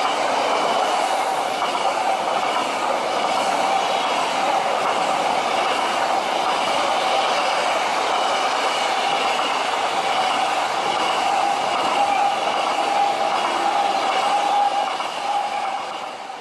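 High-speed electric train running past at speed: a steady, loud rush of wheels on rail and air, with a held mid-pitched tone running through it, easing off near the end.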